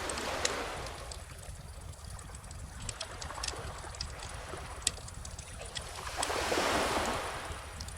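Bonfire crackling with scattered sharp pops over calm ocean waves washing on the shore, with a larger wave swelling and fading near the end.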